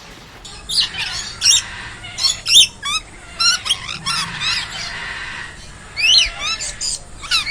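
Birds calling: a rapid series of short, high chirps and squawks, several overlapping, beginning about half a second in.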